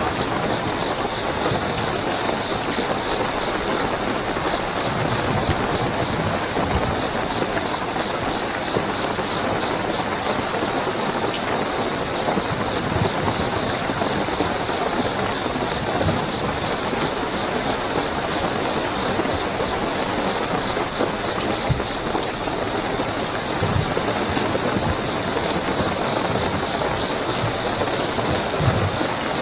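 Steady heavy rain falling, with a continuous high-pitched cricket trill running above it.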